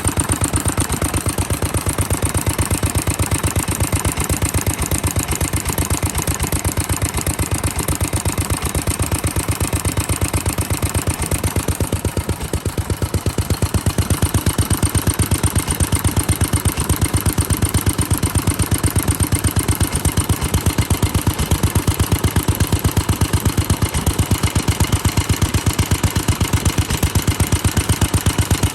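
Vintage Japanese stationary engine, a rare hatsudoki built in Fukuyama around 1960, running steadily with an even, rapid firing beat. It dips briefly about twelve seconds in, then runs a little louder.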